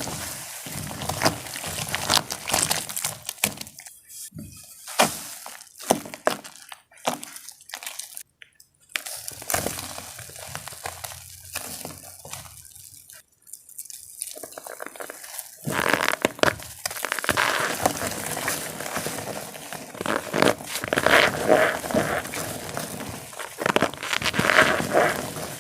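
Dipped gym chalk blocks, some coated in cornstarch, being crushed and crumbled: a dense crackly crunching that thins out in the first half and comes thick again near the end.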